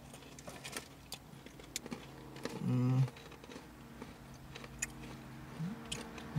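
Close-up chewing of crunchy shortbread cookies studded with peppermint candy cane pieces: scattered small crisp crunches and mouth clicks. A short hummed "mm" comes about two and a half seconds in.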